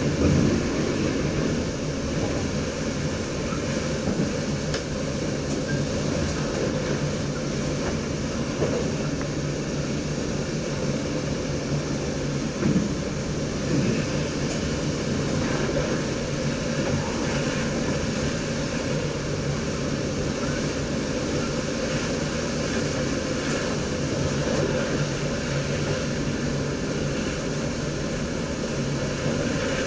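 Running noise of an NS DDZ double-deck electric train: a steady rumble of wheels on rail with a low electric hum, and a few short knocks from the track.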